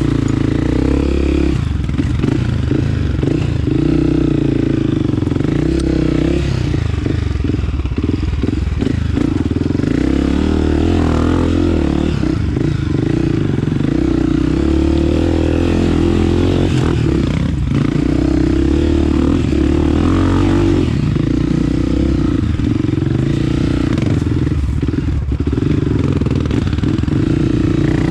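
Honda CRF 250F's single-cylinder four-stroke engine running at a mostly steady pitch, with dips as the throttle is eased and rough, choppy stretches. Heard from a helmet-mounted camera.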